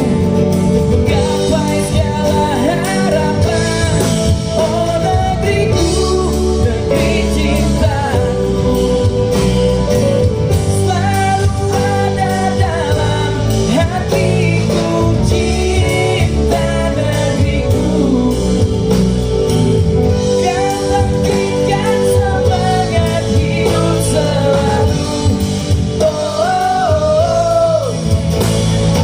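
A pop band playing live, loud and steady, with a lead singer's melody over guitars and bass. It is an Indonesian song.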